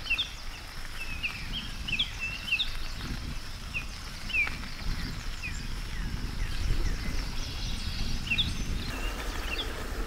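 Small birds chirping: many short, high calls a few times a second, over an uneven low rumble. Steady tones come in about nine seconds in.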